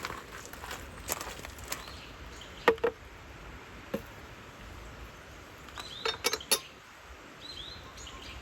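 Scattered light taps and clinks, loudest as a pair a little before three seconds in and a quick run of three around six seconds, over faint outdoor background with a few short high chirps.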